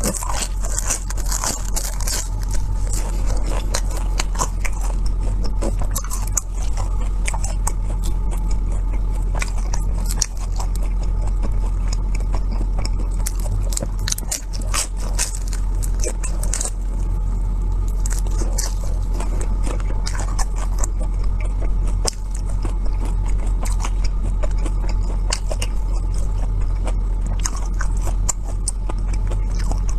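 Close-miked biting and chewing of air-fried pork large intestine: a continuous run of small, irregular crunchy and wet clicks.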